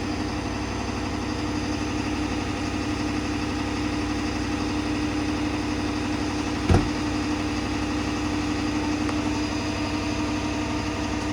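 Vehicle engine idling steadily, with a single sharp knock a little past the middle.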